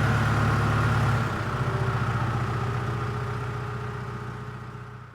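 An engine running steadily at idle with a low, even pulse. It drops a little in level about a second in, then fades away near the end.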